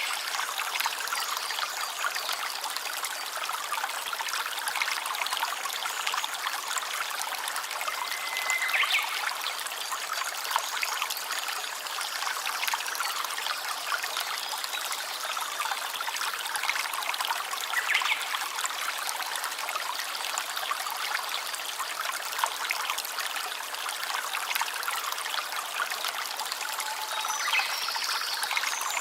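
A small stream of water trickling steadily, a dense even patter of small splashes. A few brief higher-pitched sounds come over it, once about nine seconds in, once about halfway through, and again near the end.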